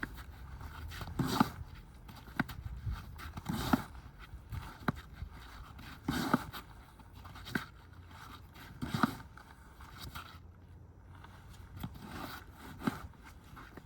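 Snow shovel scraping and scooping through snow in repeated strokes, about one every two and a half seconds, with lighter crunches between them.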